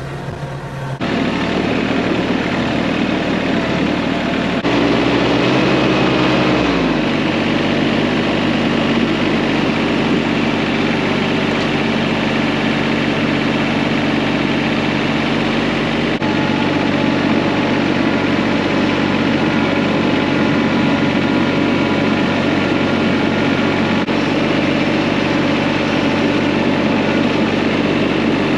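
TYM T234 HST compact tractor's Mitsubishi diesel engine running steadily while it carries a load of snow in its loader bucket; about six or seven seconds in its speed drops a little and then holds.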